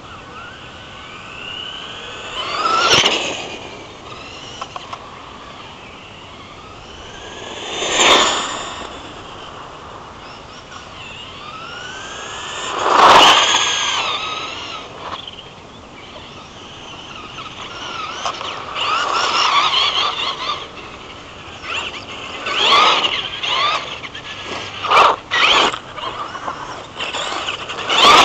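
Electric Traxxas Slash RC truck making three high-speed pass-bys about five seconds apart, its motor and gear whine rising and then falling in pitch as it swoops past each time. In the second half it drives around nearby in a run of short bursts of throttle.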